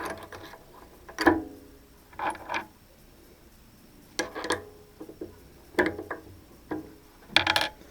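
Scattered metal clinks and knocks from tools and machine parts being handled while a mini lathe is set up, about seven short sharp hits, some ringing briefly.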